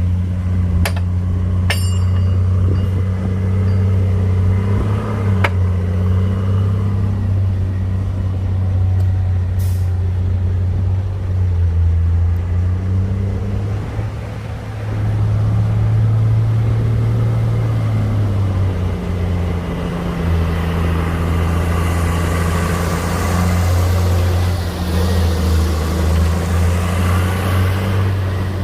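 Diesel engine of heavy earthmoving machinery running with a deep drone, revving up for a few seconds around the middle and settling back. A few sharp clanks come in the first several seconds, and a rushing hiss joins in over the last several seconds.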